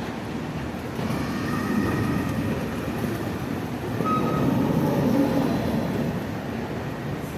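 A passenger train running on the tracks: a steady rumble that swells twice, with a few faint, brief squeals.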